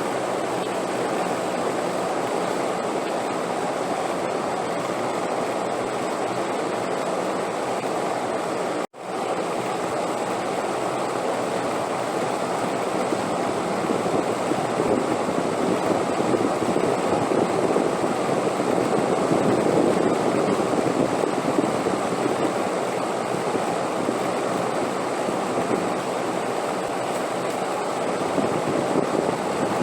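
Steady wind noise from a sleep-relaxation soundtrack, swelling a little in the middle. About nine seconds in it cuts out abruptly for a fraction of a second and comes straight back, like an edit or loop seam.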